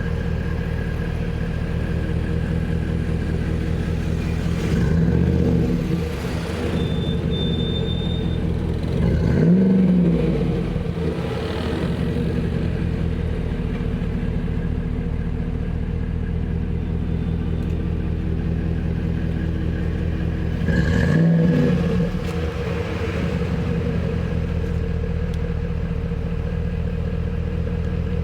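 2010 Lincoln Navigator's V8 idling through a custom one-off exhaust, revved briefly three times: about five seconds in, about ten seconds in, and about twenty-one seconds in, each rev rising and dropping back to idle.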